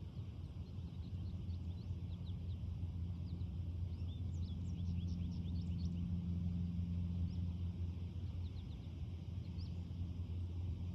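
Birds chirping, many short high chirps coming thickest about halfway through, over a steady low rumble.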